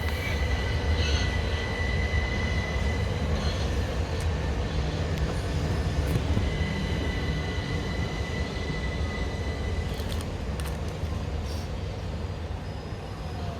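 Class 377 Electrostar electric train running through the station: a heavy low rumble with a thin, steady high-pitched whine near the start and again around the middle, easing off slightly toward the end.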